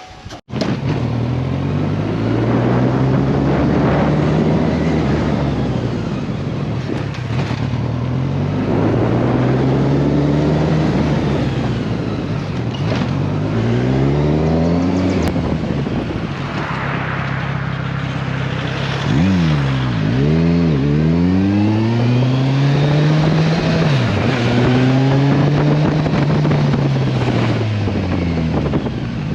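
Kawasaki Versys 1000 motorcycle's inline-four engine on the move, its pitch rising and falling over and over as it accelerates and eases off through the gears. About two-thirds of the way through come a few quick revs and drops, like downshifts.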